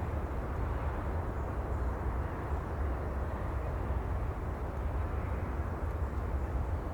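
Steady outdoor ambience: an even low rumble with a softer hiss above it, no distinct events.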